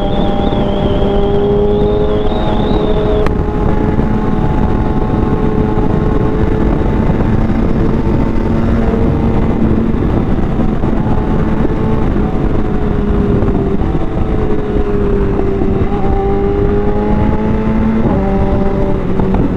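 Wind rushing around a motorcycle helmet as a BMW S1000RR's inline-four engine runs at a steady cruise. The engine note drifts slightly in pitch and shifts near the end.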